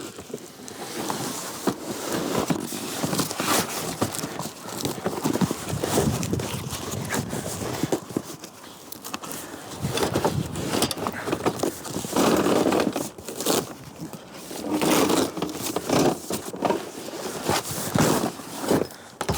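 Packaging being ripped off a new folding platform trolley: irregular tearing, crumpling and crackling of the wrapping, broken by sharp clicks, knocks and scrapes as the trolley is handled.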